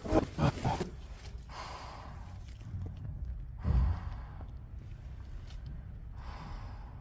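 A man breathing heavily, with three audible breaths or sighs, the middle one the loudest.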